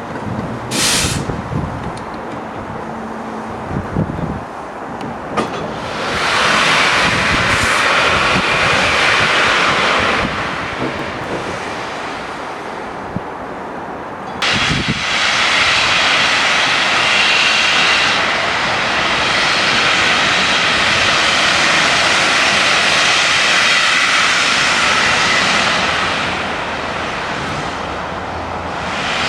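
Steam locomotive letting off steam: a loud hiss for about four seconds, then, after a pause, a hiss that starts suddenly and lasts about fourteen seconds before easing away.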